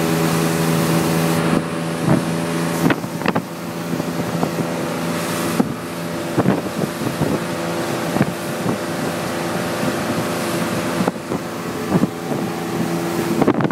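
A boat's motor running at a steady pitch, with scattered sharp knocks and clicks over it.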